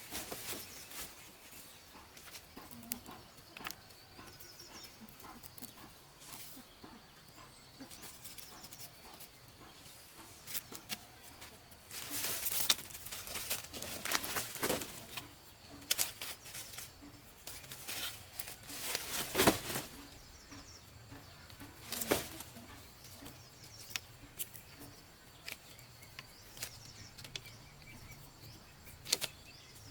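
Rustling with scattered sharp knocks and cracks, loudest in two clusters near the middle, while birds chirp faintly in the background.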